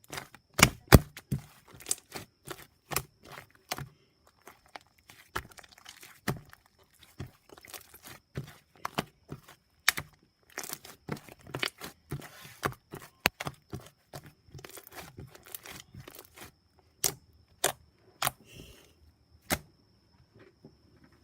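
Slime being squeezed and poked by hand, giving irregular sharp clicks and pops, some in quick runs, with softer squishing between them.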